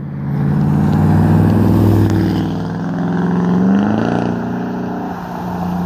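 Exhaust of a 2014 Dodge Durango R/T's 5.7-litre Hemi V8, mufflers cut off but catalytic converters and resonators kept, accelerating past in a drive-by. The note climbs in pitch, climbs again partway through, then settles to a steadier drone near the end.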